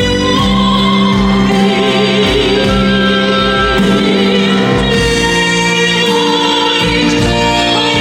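Solo female voice singing a slow ballad in a classical style with wide vibrato, over sustained keyboard accompaniment.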